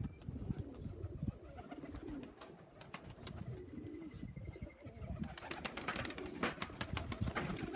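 Homing pigeons cooing softly, with scattered light clicks and taps that grow more frequent in the last few seconds.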